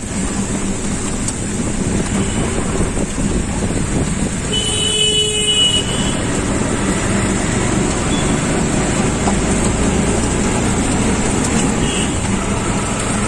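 Road traffic noise with a vehicle engine running steadily, and a vehicle horn sounding once for about a second, about five seconds in.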